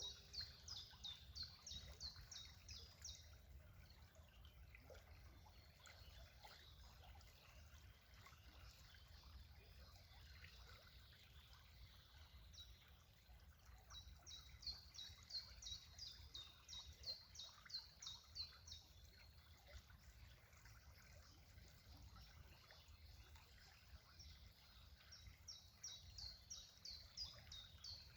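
A songbird singing bouts of quick, repeated high notes, each dropping in pitch, about four a second. One bout is at the start, one about halfway through, and one near the end, over a faint steady low background noise.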